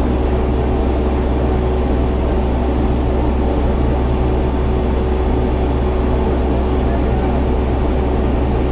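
Fire engine's engine running steadily, heard from the dashcam inside the cab: a loud, even drone with a low hum.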